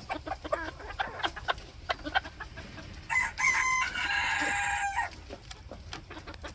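Bantam Phoenix rooster clucking in short notes, then crowing once about three seconds in, the crow lasting about two seconds.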